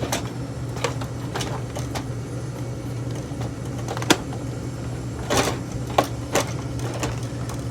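Scattered clicks and light knocks from a rotary tool and its bits being handled, with a few sharper clacks about four, five and six seconds in, over a steady low hum.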